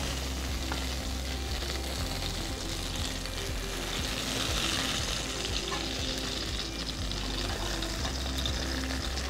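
Whole baby eggplants sizzling in hot oil in a kadai while a wooden spatula stirs and scoops them out, with light scrapes and taps of the spatula against the pan.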